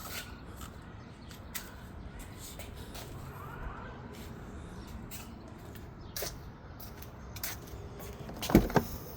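BMW N63 twin-turbo V8 ticking: irregular sharp ticks over a low steady hum, with a louder clatter of clicks near the end. The owner wonders whether the timing chain is the cause.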